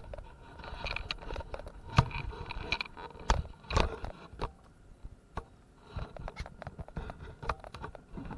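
Irregular knocks, taps and scrapes of handling in a fishing boat, with a few sharper thumps about two and three and a half seconds in.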